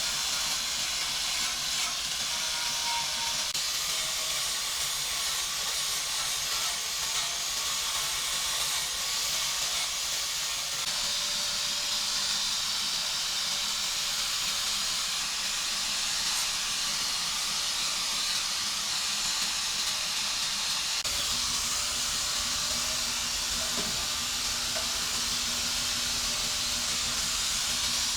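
A steady hiss. About three-quarters of the way through, a low hum and rumble join it.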